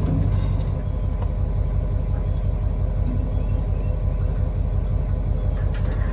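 Diesel engine running steadily at an even speed: a constant low drone with a fast, even pulse.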